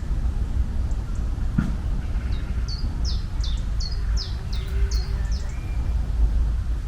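A small bird chirping a quick run of about eight short, high, falling notes, over a steady low rumble of outdoor noise.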